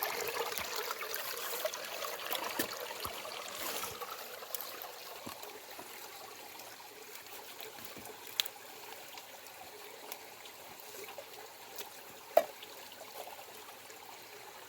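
Water trickling, louder for the first few seconds and then steadier and softer, with a couple of sharp clicks later on.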